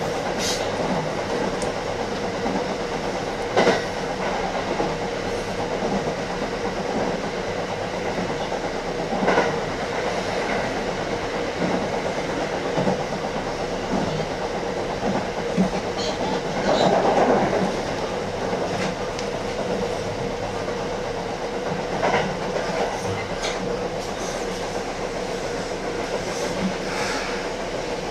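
Kintetsu electric train running at speed, heard from inside the front car: a steady running rumble with a constant hum, broken by sharp wheel knocks over rail joints and points several times, the loudest a brief rattle about two-thirds of the way through.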